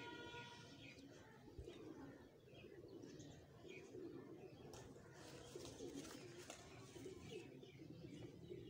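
Faint, continuous cooing of domestic pigeons, with scattered short chirps of small birds.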